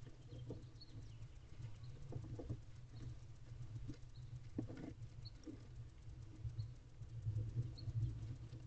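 Soft scattered scratching and rustling from a barn owl moving about on the floor of a wooden nest box, heard over a steady low hum. Faint short high chirps recur about once a second.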